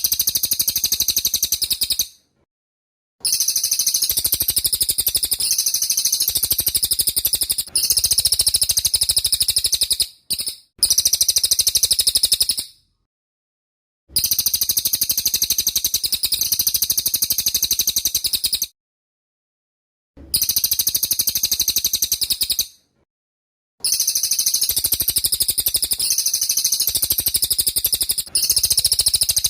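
Cililin songbird singing in very fast, high-pitched rapid-fire trills ('tembak' style), in bouts of a few seconds broken by short, abrupt silences.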